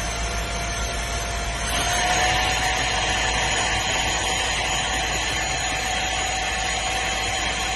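A vacuum motor running steadily with a high whine and a rush of air. Just under two seconds in, the whine rises slightly in pitch and the airflow hiss grows louder.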